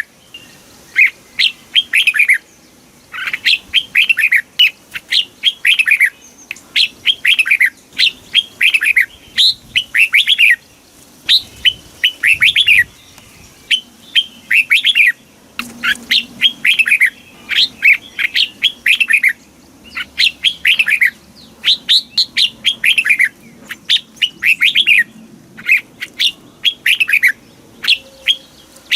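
Red-whiskered bulbul singing: quick phrases of bright notes that fall in pitch, repeated with short pauses between them.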